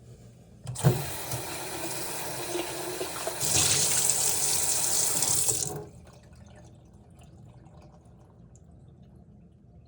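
Water running from a tap into a sink for about five seconds, starting with a knock, louder from about three and a half seconds in, then shut off. It is rinsing gunk out of the stage-1 filter housing.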